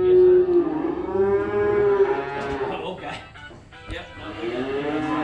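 Feeder cattle bawling in long, drawn-out moos, one after another. A lull with a few sharp knocks comes about three to four seconds in.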